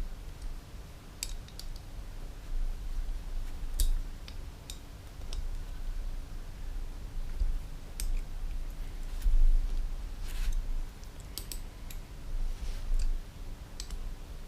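Scattered light clicks and clinks of small metal parts and hand tools being handled while the powervalve linkage is assembled, irregular and unevenly spaced, over low handling rumble.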